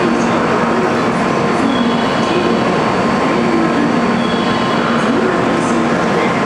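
A train running, a steady loud rumble with a constant hum and a wavering drone underneath.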